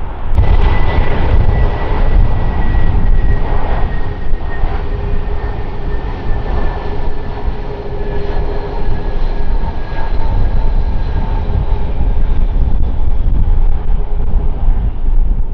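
Jet airliner's engines, a loud low rumble with a high whine that slowly falls in pitch as the aircraft passes.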